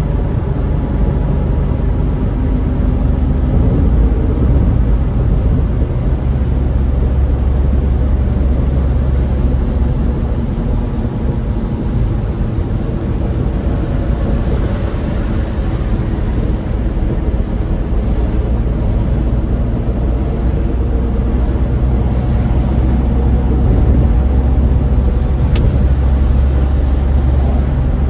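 Steady low engine and road rumble heard from inside a moving car's cabin, with one faint sharp click near the end.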